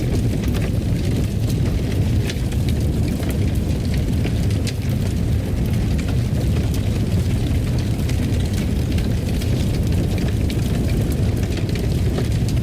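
Fireplace fire burning: a steady low rumble of flames with scattered sharp crackles and pops.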